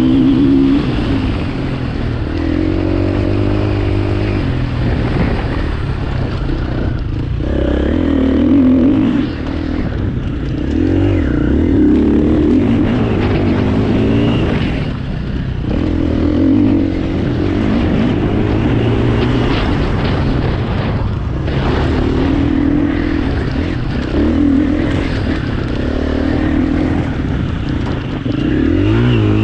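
KTM 350 four-stroke single-cylinder enduro motorcycle engine ridden hard, revving up and down repeatedly as the throttle opens and closes through gear changes.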